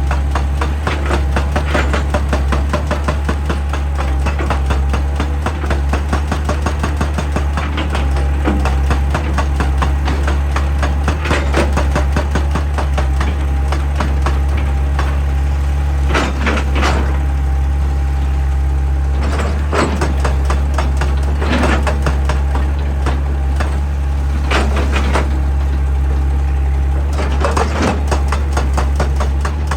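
Excavator's diesel engine running steadily with a deep drone, and several sharp knocks from the machine working rock scattered through the second half.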